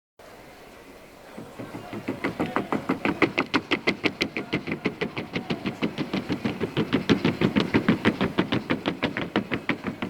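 Hoofbeats of a Colombian trocha horse striking a wooden sounding board in quick, even beats, about eight a second, growing louder over the first two seconds.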